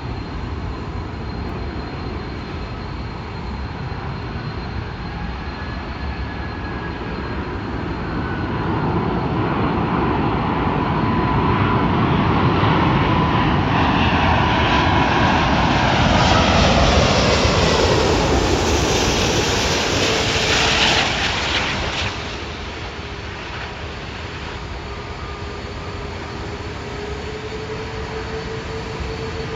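Four-engine Airbus A380 jet engines running as the airliner approaches and passes. The jet noise swells to a loud peak partway through, its whine falling in pitch as it goes by, then drops away suddenly about three-quarters of the way in.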